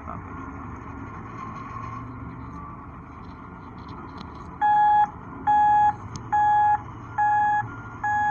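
Heavy machine's engine running steadily. About halfway through, a reversing alarm starts, with loud, even beeps a little more than once a second.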